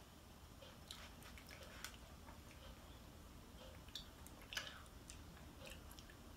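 Faint, close mouth sounds of a child chewing soft gummy candy: scattered small wet clicks and smacks, one louder smack about two-thirds of the way through. A clock ticks faintly about once a second.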